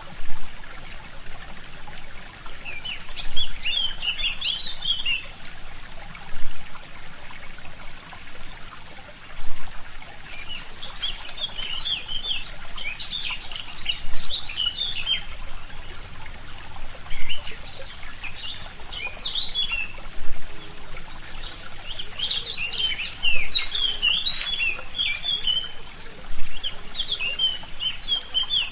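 Songbirds singing in repeated bursts of quick chirping notes, about five phrases spaced a few seconds apart, over the steady trickle of a forest stream.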